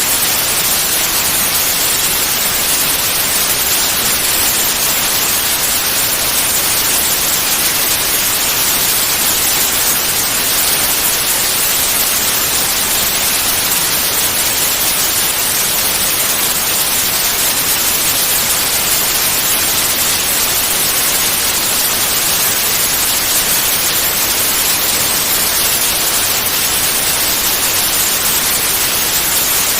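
Continuous white noise: a steady, even hiss with no breaks or changes, strongest in the treble.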